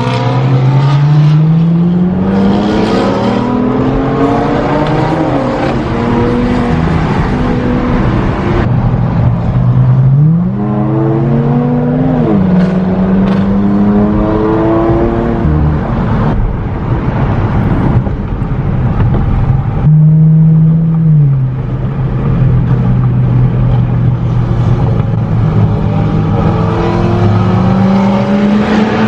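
A car engine accelerating hard several times, its pitch climbing through each pull and stepping down at the gear changes, with stretches of steady cruising in between.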